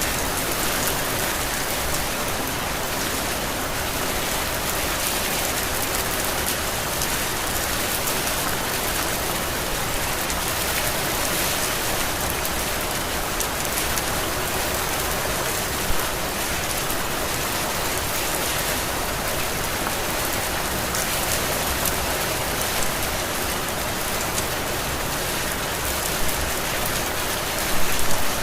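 Heavy tropical rain falling steadily, a dense even hiss of drops. A few brief louder hits stand out, one about halfway through and a quick cluster near the end.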